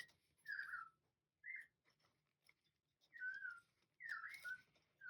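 Soft whistling: about five short whistled notes that slide in pitch, separated by brief pauses.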